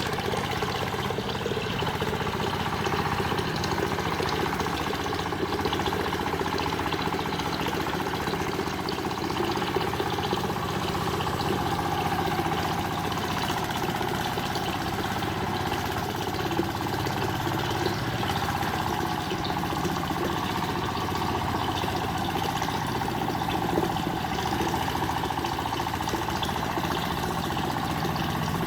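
A small engine or motor running steadily, with an even rumble and a few faint ticks.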